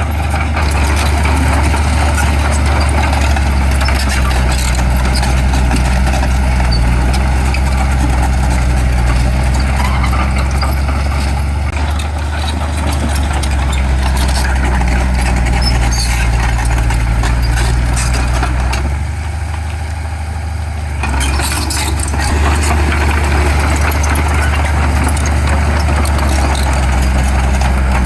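Heavy diesel earthmoving machinery running steadily with a deep engine hum. It eases off briefly about two-thirds of the way through, then picks up again.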